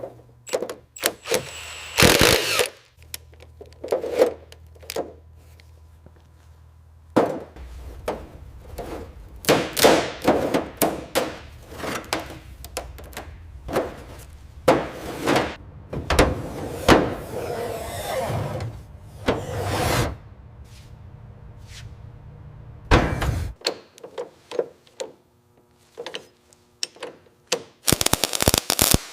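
Restoration workshop sounds: a run of tool knocks, thunks and clanks, with several longer noisy bursts from tool work in the middle. A low steady hum underneath cuts off about three quarters of the way through.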